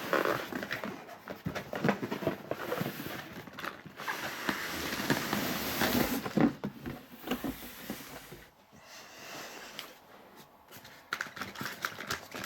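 Cardboard box being opened by hand: flaps and packaging scraping and rustling, with scattered knocks and taps. There is a longer stretch of scraping in the middle, and it goes quieter near the end.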